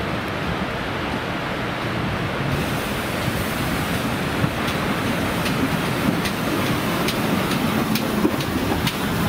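A train running past on the line under heavy wind noise on the microphone. From about three seconds in there is a scattering of sharp clicks that grows more frequent.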